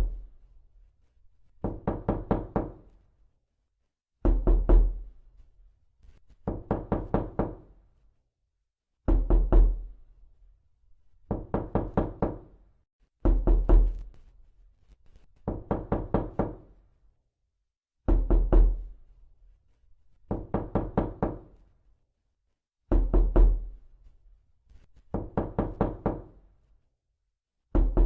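Repeated knocking in quick runs of four to six knocks, a run about every two seconds, some runs heavier with a deep thud and some lighter.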